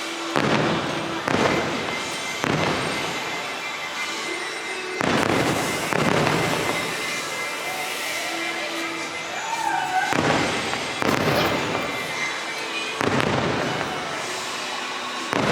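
Aerial firework shells bursting one after another, about seven sudden booms a few seconds apart, each fading over a second or two.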